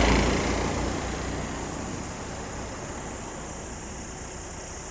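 A loud engine passing close by: a deep rumble with hiss above, loudest right at the start and fading away over the first couple of seconds, leaving a steady lower engine and traffic noise.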